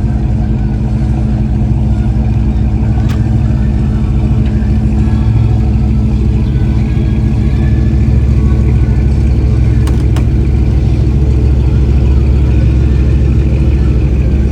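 Car engine running steadily at low speed, growing a little louder about halfway through, with a couple of faint clicks.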